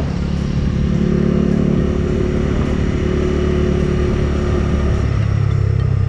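Bajaj Dominar 250's single-cylinder engine running steadily under way, with rushing air. About five seconds in, the engine note drops to a lower pitch.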